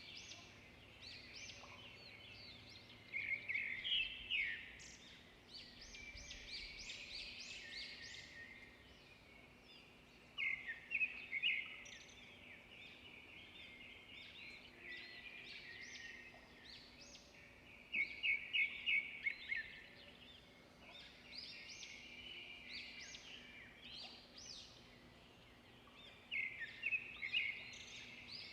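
Several songbirds chirping and singing together, with louder bursts of quick repeated notes about every eight seconds.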